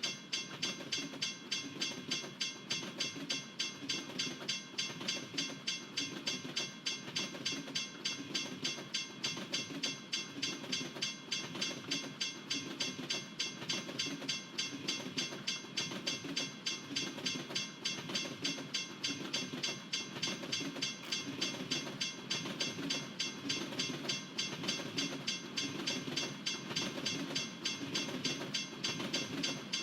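Freight train cars rolling past, with a steady clicking rhythm of about two to three clicks a second.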